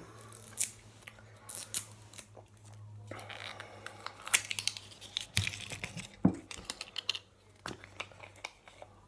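Plastic tamper seal on a hot sauce bottle's cap being torn and peeled off: irregular crinkling and tearing with scattered sharp clicks.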